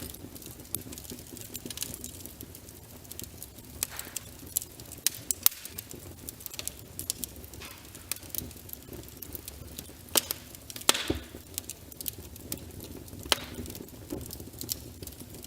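Wood fire of burning logs crackling, with irregular sharp pops over a low steady rumble of flame; a cluster of louder pops comes about ten seconds in.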